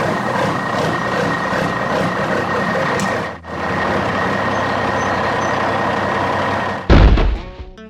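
Truck engine running steadily, briefly dropping out about three and a half seconds in. A loud thump comes near the end.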